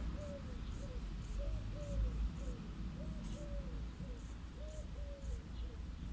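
A dove cooing in repeated short three-note phrases, about one phrase a second. Insects chirp high and fast, about twice a second, over a low steady rumble of distant traffic.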